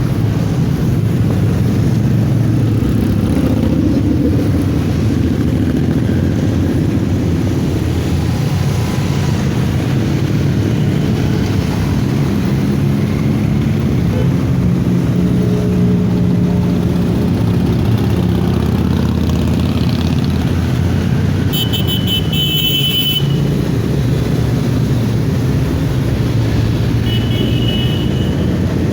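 Motorcycle engine running steadily with a deep rumble. A brief rapid high-pitched beeping cuts in about three quarters of the way through, and a shorter high beep comes near the end.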